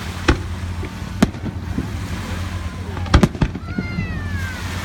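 Fireworks going off: single bangs under a second in and just after a second, then a loud double bang about three seconds in, over a steady low rumble. A falling tone sounds near the end.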